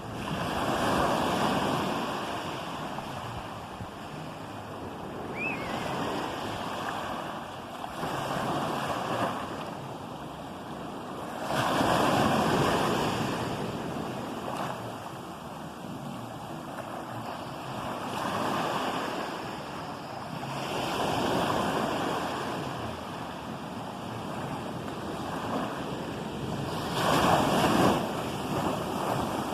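Ocean waves breaking and washing in, the rushing surf swelling and fading every few seconds. The loudest surges come about a second in, about twelve seconds in, and near the end.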